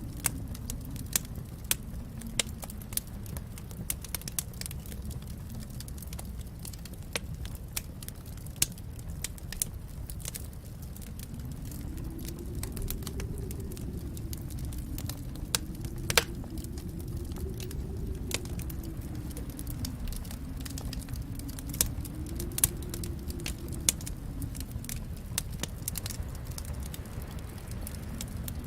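Fireplace fire crackling, with irregular sharp pops over a steady low rumble of flames that swells and eases a few times.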